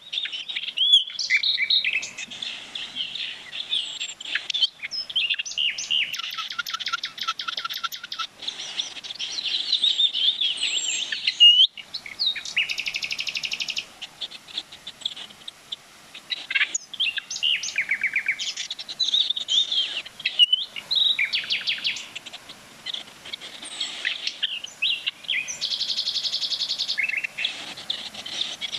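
Several songbirds singing at once: overlapping chirps and short whistles, with repeated fast trills recurring several times.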